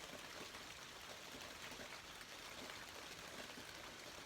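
Steady rain falling, a faint even hiss.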